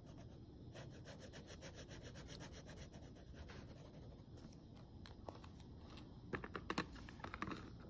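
Felt-tip marker scribbling back and forth on paper, coloring in a bar on a graph: a faint, fast run of scratchy strokes, with a few louder clicks near the end.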